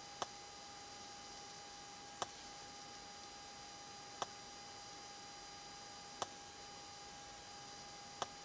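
Sharp faint click repeating evenly every two seconds over a low steady hiss with a faint high steady tone.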